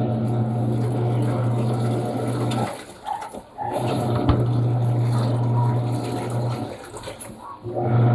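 Panasonic washing machine agitating a load: the motor hums in stretches of about three seconds with short pauses between, and water swishes in the tub.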